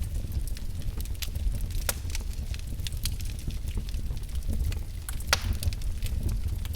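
Wood fire burning in a fireplace: a steady low rumble of flames with many small crackles and sharp pops, the loudest pop about five seconds in.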